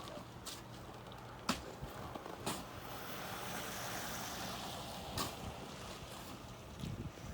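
A vehicle passing on a wet, snowy road, its tyre hiss swelling and fading around the middle, with a few sharp clicks or knocks.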